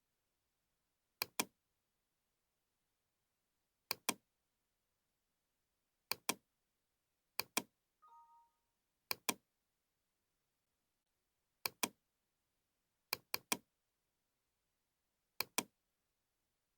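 Computer mouse button clicks, mostly in quick pairs like double-clicks and once three in a row, in eight groups a second or two apart. A short electronic beep sounds about eight seconds in.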